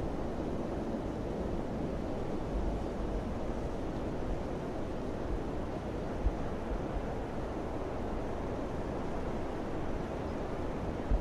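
Steady rushing wind, with two brief low thumps of wind buffeting the microphone, about six seconds in and near the end.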